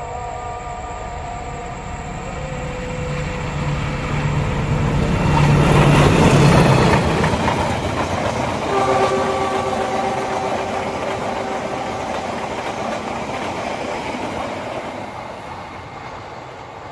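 Malabar express passenger train, hauled by a diesel locomotive, passing at speed: its multi-tone horn sounds as it approaches, the locomotive's engine and the rush of wheels on rail are loudest about six seconds in, then a second long horn chord sounds around nine seconds in as the coaches rush by, and the noise fades as the train draws away.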